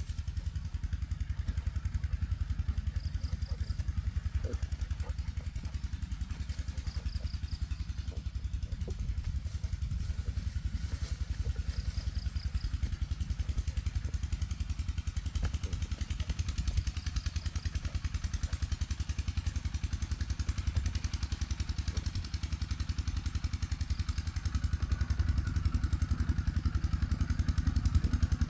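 A small engine running steadily, a low, fast-pulsing rumble that gets a little louder near the end, with a few faint short high chirps now and then.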